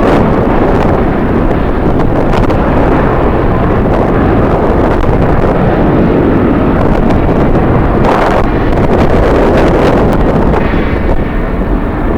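Strong wind buffeting the camera's microphone: a loud, steady rumbling rush with occasional sharper gusts.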